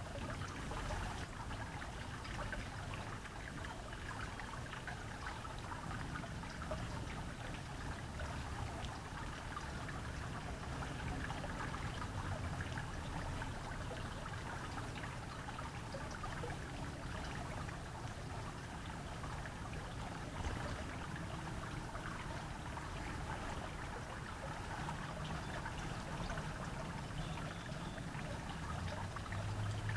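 Running water trickling steadily, with a faint low hum underneath.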